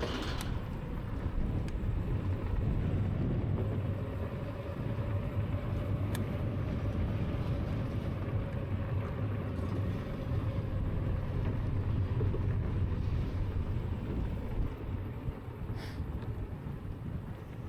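Steady low rumble of wind and tyres while riding a Lankeleisi X2000 electric bike along a path, with a faint whine through the middle.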